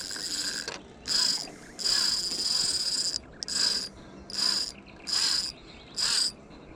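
Fishing reel's drag buzzing in repeated bursts of about half a second to a second as a hooked fish runs and pulls line off the spool.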